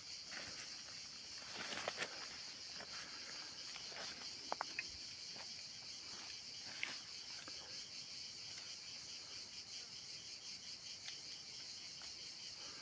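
Insects chirring steadily at a high pitch, with a few faint clicks and knocks about two, four and a half, and seven seconds in.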